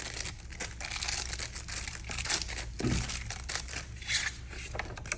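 Packaging crinkling and rustling as the contents of a product box are unpacked and handled: irregular crackles, with light tearing.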